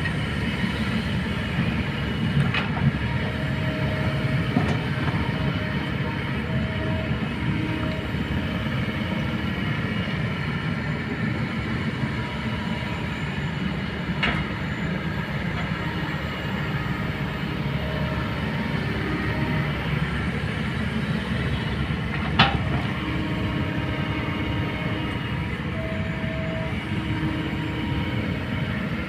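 Kobelco excavator's diesel engine running steadily, with brief whining tones that come and go and three sharp knocks, the loudest about 22 seconds in.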